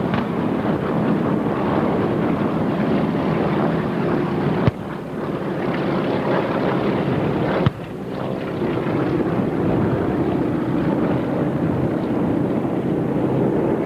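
Steady rushing noise of wind on a camcorder microphone mixed with a distant engine drone. Two sharp clicks come about five and eight seconds in, each followed by a brief sudden drop in level.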